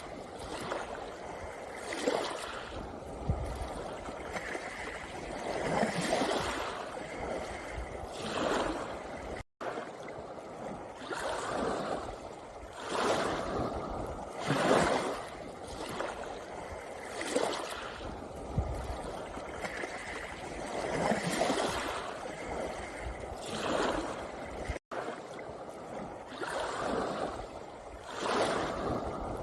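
Small sea waves washing in and out over a pebble shore, each surge swelling and falling back every two to three seconds. The sound cuts out for an instant twice.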